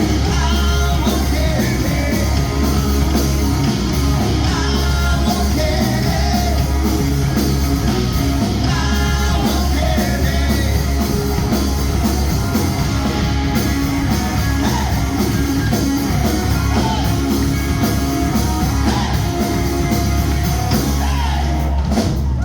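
Loud rock music: a band with a singer, over a heavy steady bass.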